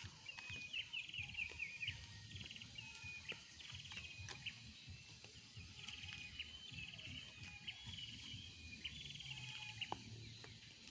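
Small birds chirping in short, quick trilling phrases, repeated over and over, with a few faint scattered ticks underneath.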